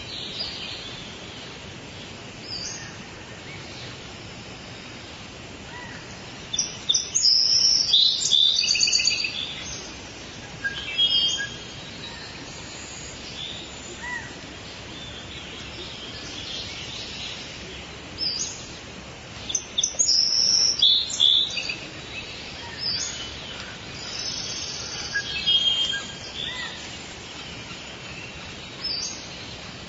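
Forest bird chorus: assorted birds calling and chirping over a steady background hiss of forest ambience, with the loudest bursts of song about a quarter of the way in and again past the middle.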